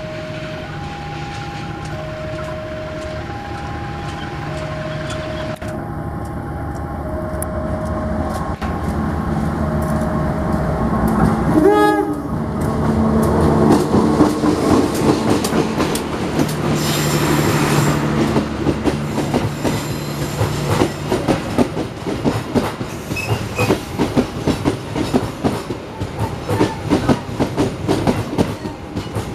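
Level crossing warning alarm alternating between two tones, about one each second, then stopping. A CC201 diesel-electric locomotive approaches and gives a short horn blast about 12 s in, its engine running as it passes, followed by the carriages' wheels clicking steadily over the rail joints.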